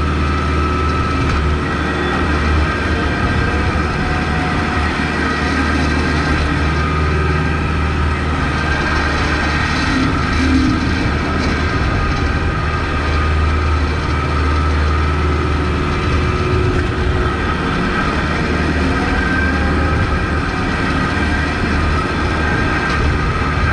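Kubota MX5200 tractor's diesel engine running steadily under load, with a strong low drone and a constant whine above it.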